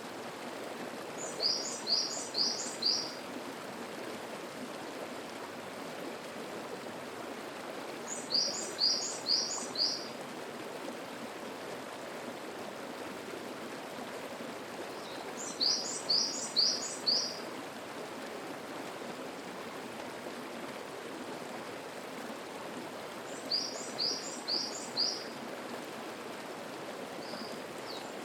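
Mountain stream running steadily, with a songbird singing a short phrase of four or five quick, high, falling notes four times, about every seven seconds.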